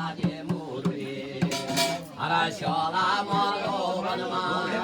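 Male voice chanting a Garhwali jagar devotional song, with several drum strokes in the first second and a half, then a sung melodic line.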